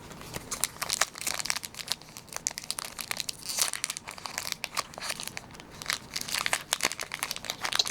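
A Pokémon card booster pack's foil wrapper crinkling and tearing as it is handled and ripped open, an irregular run of sharp crackles.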